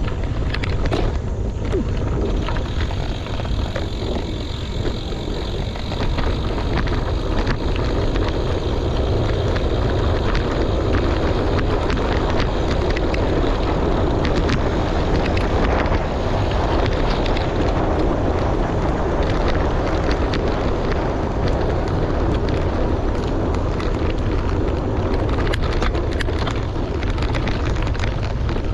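Wind buffeting the microphone with a steady low rumble, over the crunch and rattle of bicycle tyres rolling on a gravel road.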